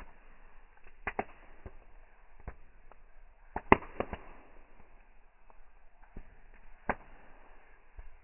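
Bonfire crackling: a faint steady hiss broken by irregular sharp pops and cracks from the burning wood, the loudest a little past the middle.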